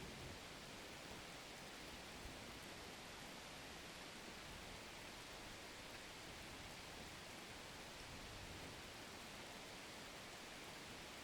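Rain falling as a faint, steady, even hiss.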